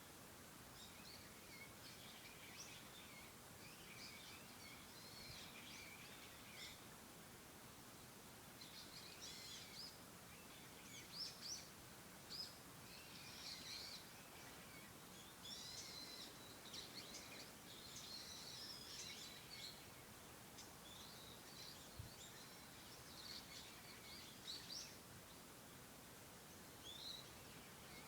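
Faint morning chorus of several small songbirds chirping and twittering, many short calls overlapping, busiest in the middle, over a quiet steady hiss.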